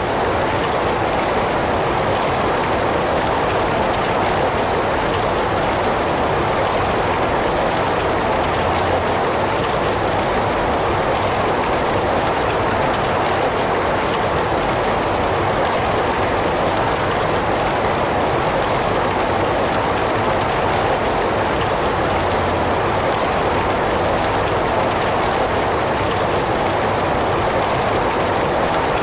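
Heavy rain falling steadily, an even, unbroken hiss with no thunder or single drops standing out.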